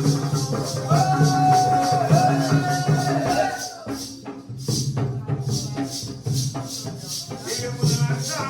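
Jakhadi folk music: a held sung melody line over a steady beat of jingling metal percussion and a low drum. The melody drops out about halfway through, leaving mostly the jingling rhythm, and the low tones return near the end.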